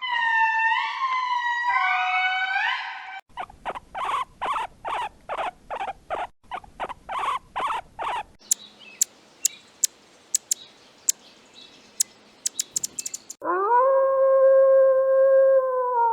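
A run of different animal calls edited back to back: repeated gliding pitched calls, then rhythmic calls at about two a second, then scattered sharp clicks. About 13 seconds in, a long, steady howl starts suddenly.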